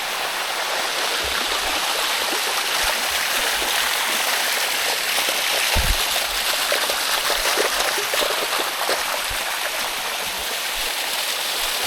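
Water of a cascading waterfall running over rock in a steady rush, heard up close, with a short low thump about halfway through.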